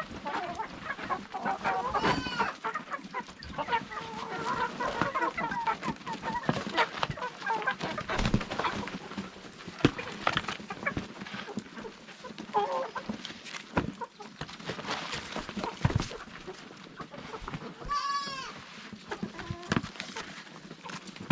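Chickens clucking around feed, with many short taps and scuffles among the calls. Two longer, higher calls stand out, about two seconds in and again near the end.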